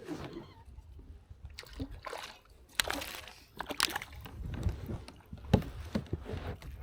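Water sloshing and splashing around a kayak, with irregular knocks and swishes against the hull; the sharpest knock comes about five and a half seconds in.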